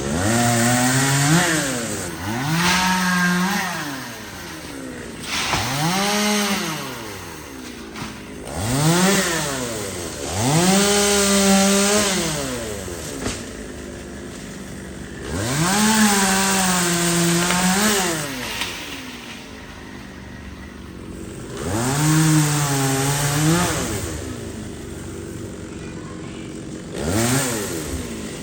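Two-stroke chainsaw throttled up in about eight short bursts, each rising to full speed, holding for one to three seconds, then dropping back to idle. This is the pattern of trimming branches.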